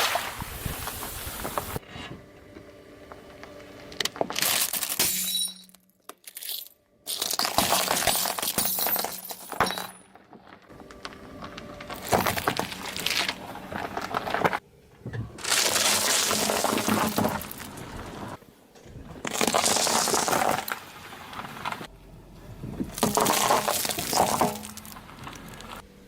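A string of short clips of a car tyre rolling over and crushing objects: crunching, cracking and breaking glass. The clips change abruptly every few seconds.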